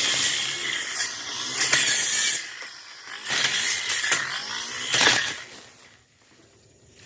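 Tanzu brush cutter slashing through thick brush in repeated loud bursts, one every second or so. It drops away sharply about six seconds in.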